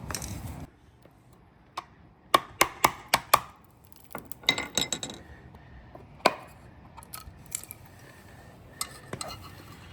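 Sharp clicks and light clinks of hand tools prying and unclipping the plastic casing of a car headlight control module to get inside it, with a quick run of clicks about two to three seconds in and scattered ones after.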